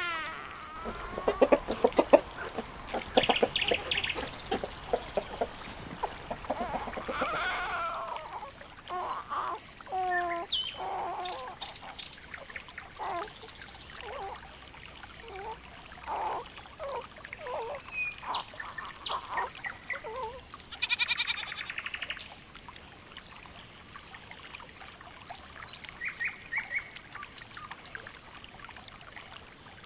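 Farmyard animal ambience: poultry clucking and quacking with scattered bird calls, over a steady high insect trill. A short, louder call comes about two-thirds of the way through.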